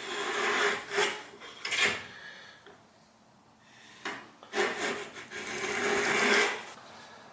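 Hand plane with a freshly sharpened blade being pushed along a pine board, taking thin shavings: two long planing strokes with a short pause between.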